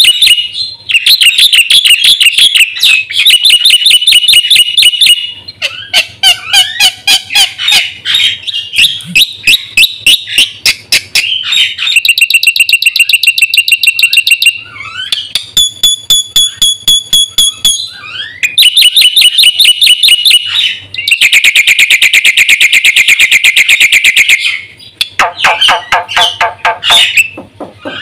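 Black-winged myna (jalak putih) singing loudly and without pause: a varied song of fast rattling trills, clear whistled notes and harsh chatter, changing phrase every few seconds, full of imitations of other birds' calls.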